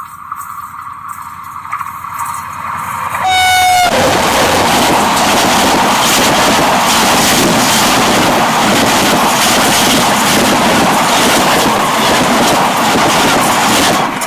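A train sounds its horn briefly about three seconds in, then passes right over the microphone, close to the rails, with a loud, steady rush of wheels and wagons that cuts off suddenly near the end.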